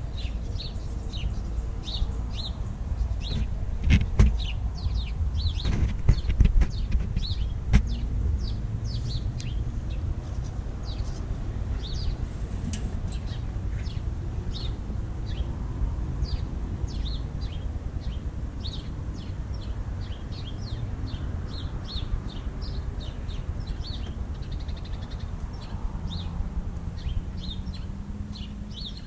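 Small birds chirping over and over in short, quick notes, over a steady low rumble, with a few sharp knocks in the first eight seconds.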